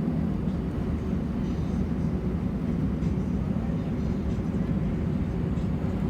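Steady low rumble of an Airbus A320-family airliner's engines and airframe, heard inside the passenger cabin.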